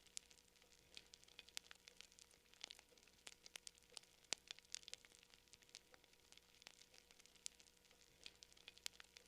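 Campfire crackling: burning wood giving off faint, irregular small pops and snaps, a few sharper ones standing out.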